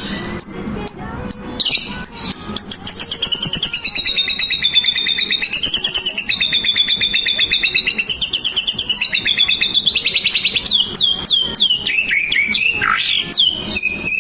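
White-rumped shama (murai batu) singing: a few spaced short chirps, then a long fast rattling trill that wavers up and down in pitch for about eight seconds, then a run of quick downward-sliding whistles near the end.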